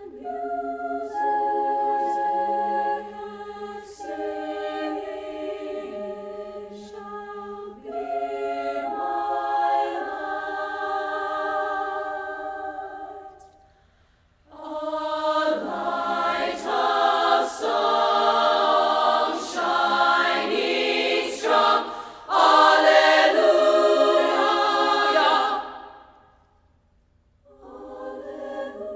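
Choir of voices singing held chords in long phrases, with a short pause about 14 seconds in. The second phrase is louder and fuller, and a new phrase begins near the end.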